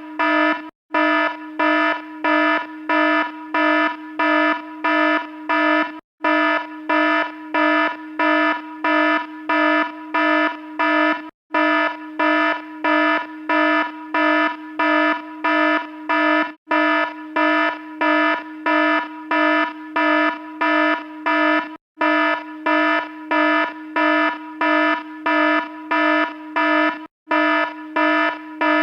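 Electronic alarm sounding: a low, buzzy beep repeating rapidly, about two to three beeps a second, with a brief gap every five seconds or so.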